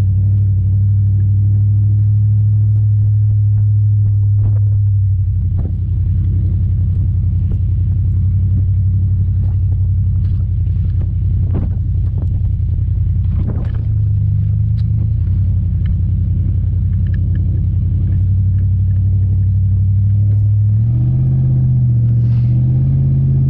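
Pickup truck engine running steadily as the truck drives, its note shifting slightly about five seconds in and rising near the end.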